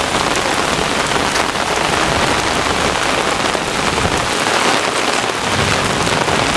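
Heavy thunderstorm rain pouring steadily, a dense unbroken hiss of drops.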